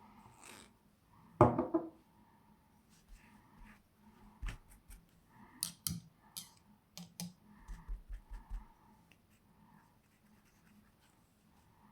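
Scattered light clicks, taps and scratches of painting tools being handled, brush and paint on stone, with one louder short knock that rings briefly about a second and a half in.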